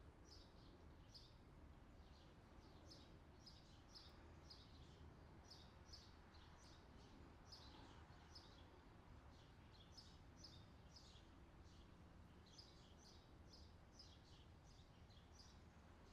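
Faint outdoor summer ambience: small birds chirping in quick, repeated short notes over a steady low background rumble.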